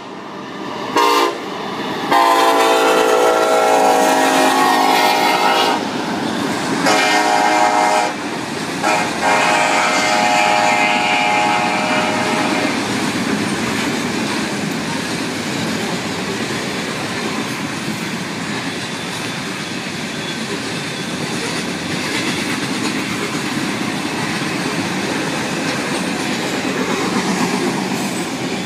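Horn of Canadian National freight locomotives sounding a series of long and short blasts for a grade crossing, the last long blast ending about a third of the way in. Then the loaded coal hopper cars roll past, a steady noise of wheels on rail.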